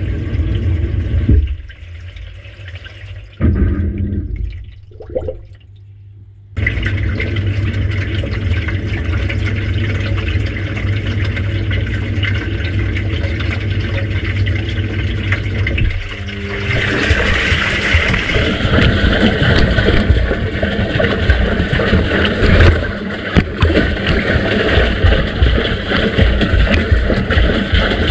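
Washing machine in its wash cycle: water and laundry sloshing in the turning drum, with the machine's motor running beneath. It drops off briefly a couple of times near the start, then runs steadily and gets louder about two-thirds of the way through.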